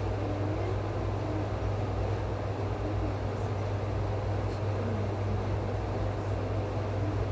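A steady low machine hum under a constant wash of noise, with faint brief wavering tones drifting above it.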